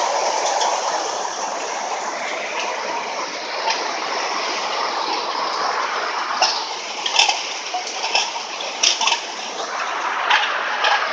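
Heavy rain pouring down and water running over flooded ground, a steady dense hiss. A few sharp splashes or taps cut through it in the second half.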